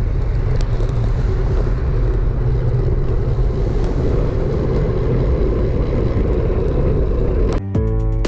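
Wind rushing over the action-camera microphone, with tyre and road noise, as a road bike rolls along at speed. It stays steady and heavy in the low end, and guitar music comes in near the end.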